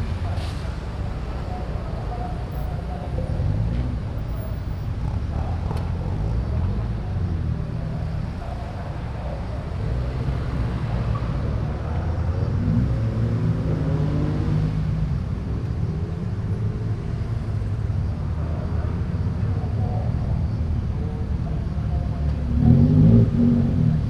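Car engines and exhausts running as cars roll out one after another, the revs rising and falling, with one louder car near the end.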